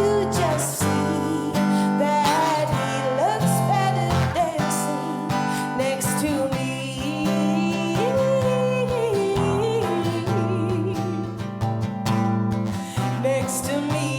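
Live acoustic music: a strummed acoustic guitar with a voice singing a melody over it.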